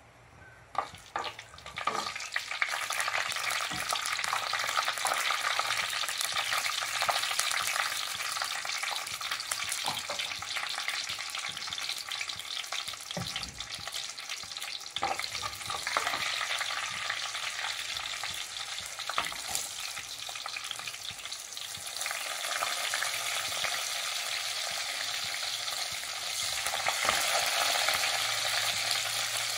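Seeds and then garlic sizzling in hot oil in a clay cooking pot, the frying starting about a second in as they hit the oil. Sharp clicks and scrapes from the ladle stirring come through the sizzle, which grows louder about two-thirds of the way through.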